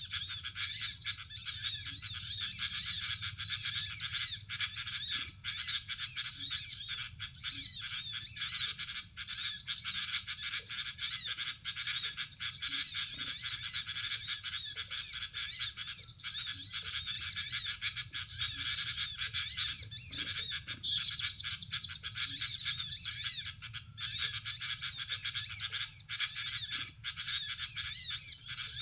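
Small birds chirping in a fast, unbroken stream of high, sharp notes, with a steadier trill a little past the middle.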